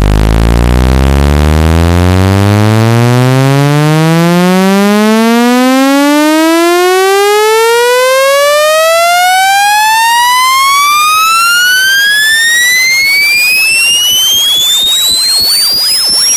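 Electronic speaker-cleaning tone sweeping steadily upward in pitch, from a low buzz to a high whistle, with a buzzy, overtone-rich sound.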